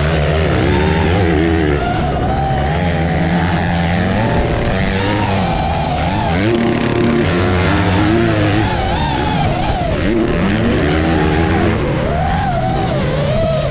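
Motors revving, their pitch climbing and falling over and over.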